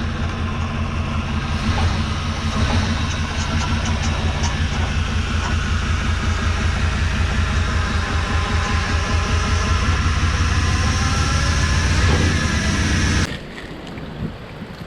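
1994 GMC C3500HD truck engine running steadily with a rapid low pulsing, cutting off suddenly near the end. After that only a quieter hiss of rain is left.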